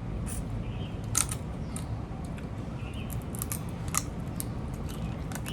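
Crab and lobster shells being cracked and picked apart while eating: scattered sharp clicks and snaps, a louder one about a second in and another near four seconds, over a low steady hum.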